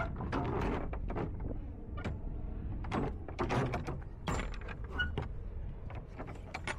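Metal clanks and rattles of a semi-trailer's rear doors being shut and latched for sealing, a string of sharp knocks over a steady low rumble.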